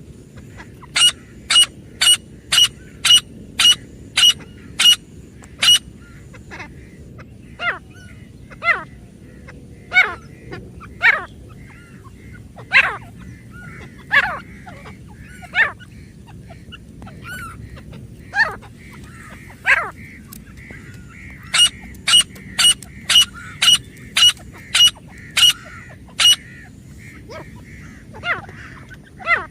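Grey francolin calling: two runs of sharp, evenly repeated notes about two a second, one near the start and one a little past the middle, with scattered single calls between them.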